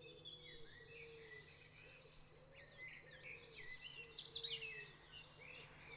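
Songbirds singing outdoors, a busy overlapping chorus of high chirps and trills that grows louder for a moment in the middle.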